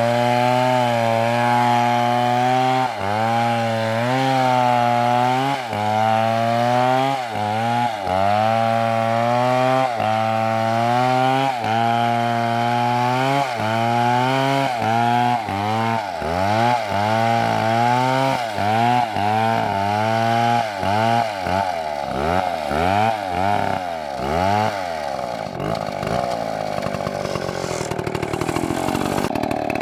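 Large two-stroke chainsaw (MS720) cutting into a big tree trunk. The engine note sags each time the chain bites and picks back up, over and over, about once a second at first, then deeper and quicker in the second half, rougher near the end.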